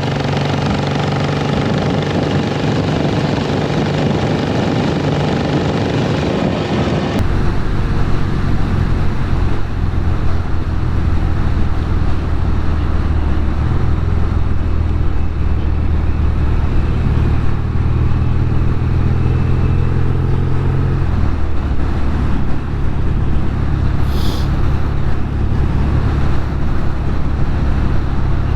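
Norton Commando 850 Mk2's parallel-twin engine running steadily while the motorcycle is ridden. About seven seconds in, the sound turns abruptly deeper and duller, and the engine note shifts pitch a couple of times later on.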